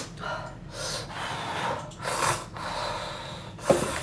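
A person eating hot noodles slurps and draws in air sharply, giving four or five breathy bursts, with a short click near the end.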